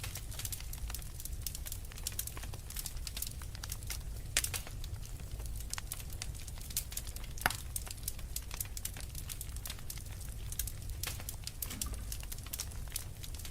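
Log fire in a fireplace crackling, with many small irregular pops over a low steady rumble of the burning wood. Two louder pops stand out, a little before halfway and about halfway through.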